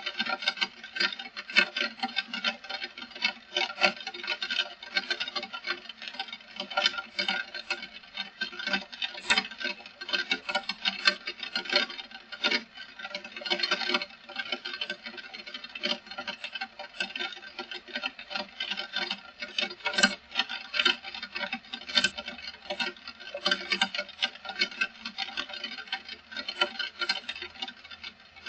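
Heavy rain falling, heard as a dense, irregular stream of drop hits with no letup.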